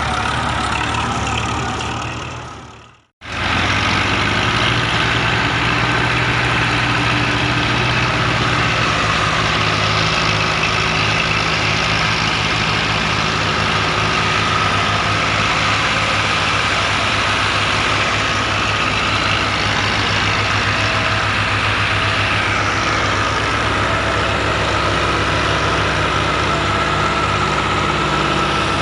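Massey Ferguson tractor diesel engine running steadily with a low, even pulse. It fades out to silence about three seconds in, then comes straight back.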